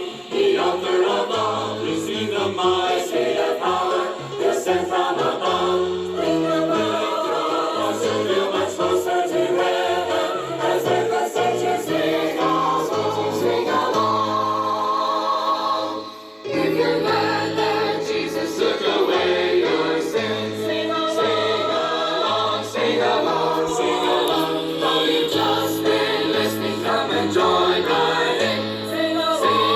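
Choir singing a gospel song, with a short break between phrases about halfway through.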